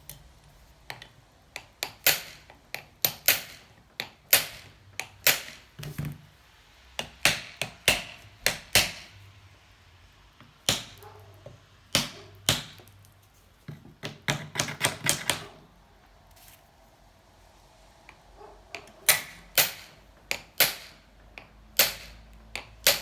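Repeated sharp metal taps and knocks in irregular quick runs with short pauses, like a hammer driving wedges in to prise a seized cylinder off a small Honda C70 motorcycle engine.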